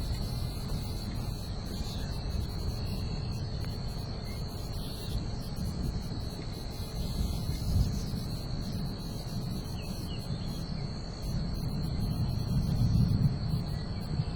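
A steady, high-pitched insect chorus, like crickets, over low rumbling wind on the microphone that grows stronger near the end.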